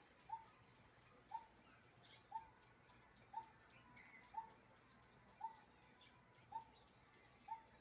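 Coppersmith barbet calling a monotonous 'tuk', a single short note repeated about once a second. Fainter higher chirps of other birds sound in the background.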